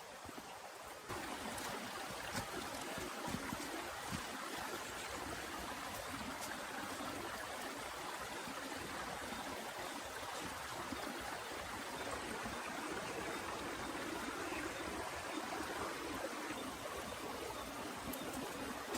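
Steady rushing of water with scattered faint ticks, stepping up abruptly about a second in and then holding even.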